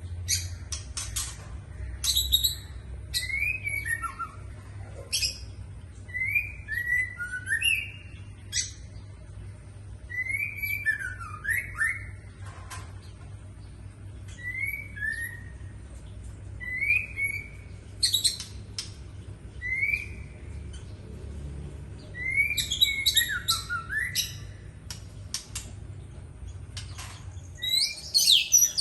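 Oriental magpie-robin (kacer) singing: short whistled phrases of rising and falling notes every second or two, mixed with sharp chips.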